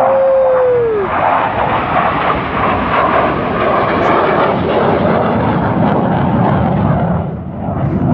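F-16 fighter jet's engine roaring loudly as it makes a low display pass. The roar eases briefly near the end, then builds again. A short rising-and-falling tone sounds at the very start.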